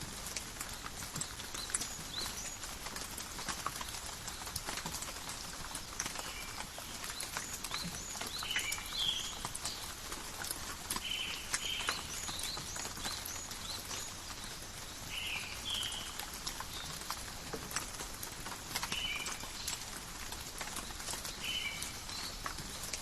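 Steady forest rain, with many separate drops tapping and pattering on leaves. A short chirp repeats every two to three seconds.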